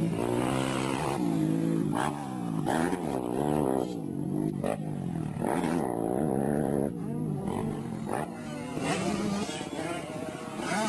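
125cc two-stroke motocross bike engine revving hard, its pitch climbing and dropping again and again as the throttle opens, closes and the bike shifts gears.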